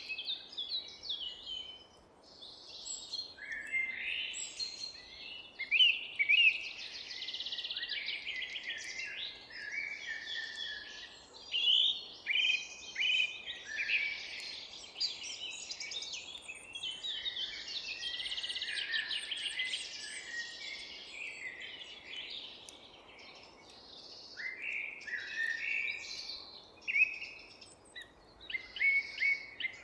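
A chorus of forest birds singing, several at once, with overlapping chirps, short sweeping notes and fast trills, over a faint steady background hiss.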